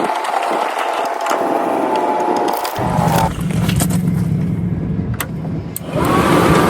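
Clicks and knocks of a furnace sail switch and its panel being handled and fitted back into an RV furnace, over steady mechanical hum. The hum changes about three seconds in, and a louder tone comes in near the end.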